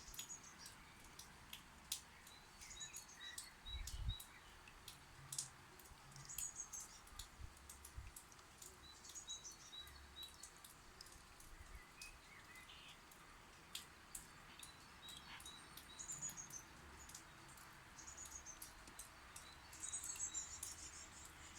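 Small birds chirping faintly in short, quick series of high notes, with scattered light clicks.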